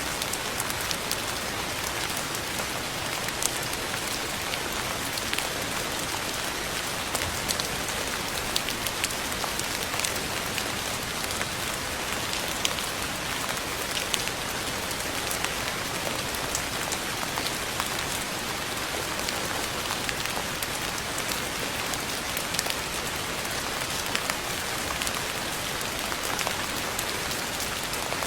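Steady rain falling, a dense even hiss with many separate drops pattering on a surface.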